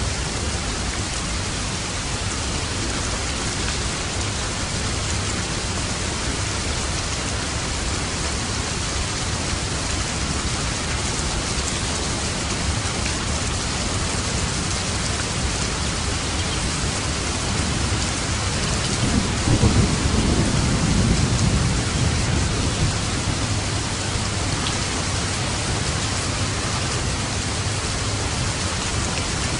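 Steady heavy rain, with a roll of thunder swelling and fading about two-thirds of the way through.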